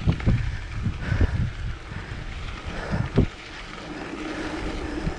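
Wind buffeting the microphone, with irregular knocks and rumble as a mountain bike rolls over a rough forest track. From about halfway through it settles into a steadier hum.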